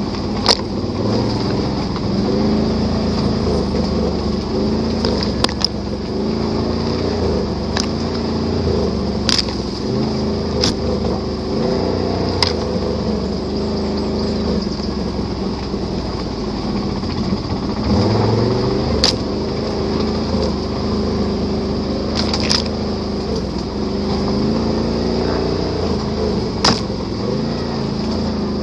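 Can-Am Renegade ATV's V-twin engine running under way off-road, its pitch rising and falling with the throttle, with occasional sharp knocks and rattles over rough ground.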